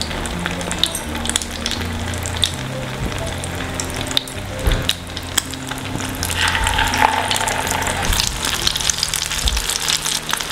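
Egg-dipped mutton shami kebab patties shallow-frying in hot oil, sizzling and crackling. The sizzle grows louder about six and a half seconds in, as another patty is laid into the oil.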